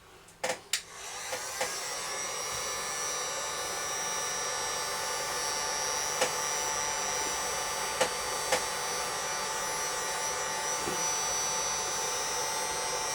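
Electric heat gun switched on after a couple of clicks, its fan motor running up within about a second and then blowing steadily with a steady whine.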